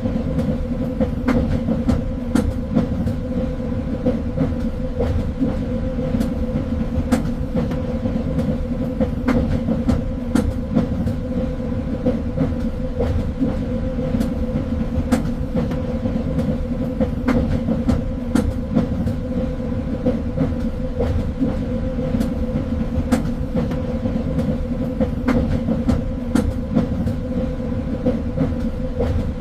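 A train moving along the track: a steady low rumble with a constant hum, broken by irregular clicks and knocks from the wheels on the rails.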